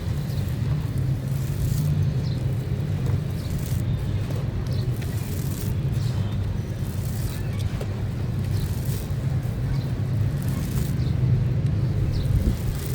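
Stony clay or sand-cement chunks crumbling, giving scattered short crackles over a steady low rumble.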